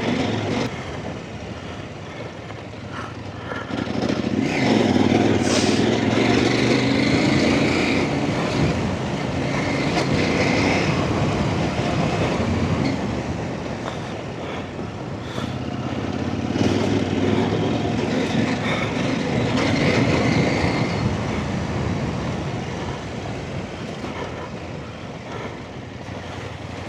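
Off-road trail motorcycle engine running while riding a lane, revving up and easing off several times as the throttle opens and closes.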